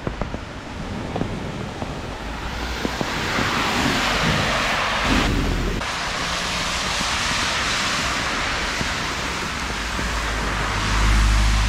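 Heavy rain pouring down, a steady hiss that swells about two and a half seconds in, with a low rumble underneath that grows louder near the end.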